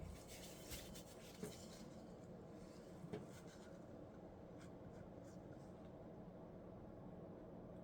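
Faint clicks and light rubbing of small parts being handled, over a low steady hum.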